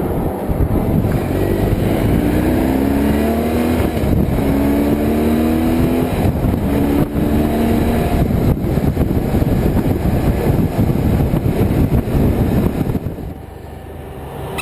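A motorcycle underway with heavy wind and road rumble. The engine note rises in pitch several times in a row, about a second each, as it accelerates. The noise eases off near the end.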